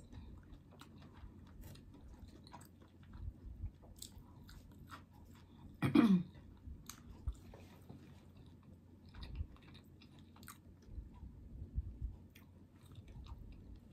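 Close-up chewing and crunching of fried food, with many small mouth clicks and one brief louder sound about six seconds in.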